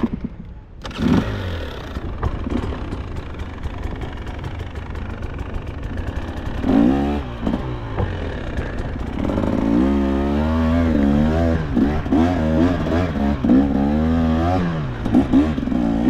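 KTM two-stroke enduro dirt bike engine running, the throttle worked again and again so the revs swing up and down. The engine dips briefly right at the start, then picks up, and from about halfway through the revving is stronger and more continuous.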